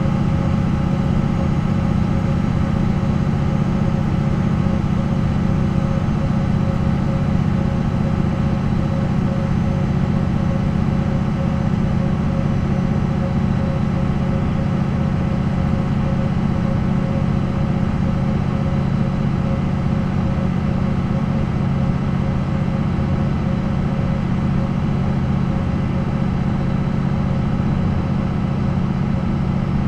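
MAN NL 263 bus's D28 diesel engine running steadily at an even speed, with no revving or gear changes.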